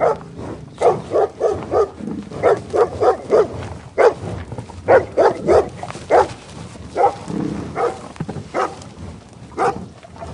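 Dog barking repeatedly in quick runs of three to five short barks, with brief pauses between the runs.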